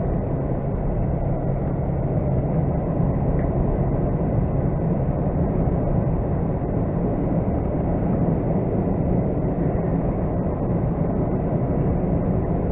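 Steady engine and road noise heard from inside a moving vehicle's cab, a low even rumble that does not change.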